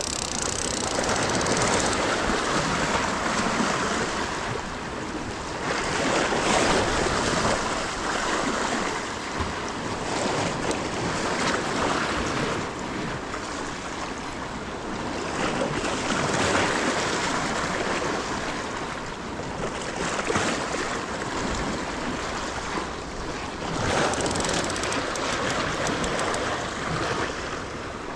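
Ocean surf washing against a rocky shore, the rush of water swelling and ebbing every four to five seconds.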